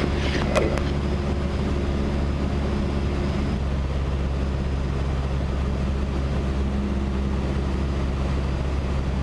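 Cessna 152's four-cylinder Lycoming engine and propeller droning steadily, heard from the cabin in flight, with a slight shift in the engine note about three and a half seconds in.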